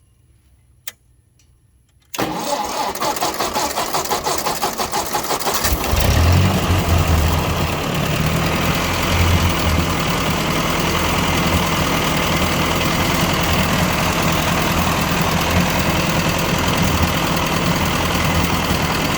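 1957 Ford 841 tractor's gasoline four-cylinder engine being cranked by the starter for about three and a half seconds, then catching and running up briefly before settling into a steady idle on its newly fitted replacement carburetor. A single sharp click comes about a second in, before the cranking.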